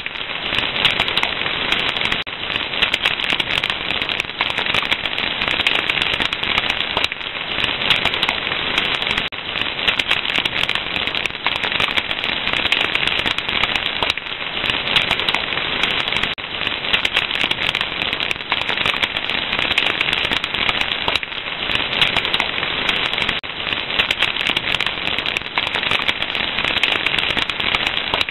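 Wood fire crackling steadily, a dense stream of small pops and snaps.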